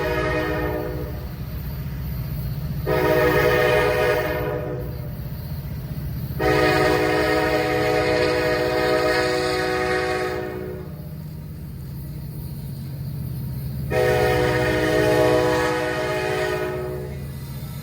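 Diesel freight locomotive's air horn sounding repeated blasts: one cuts off just after the start, then three more, the longest about four seconds, over the steady rumble of the passing train.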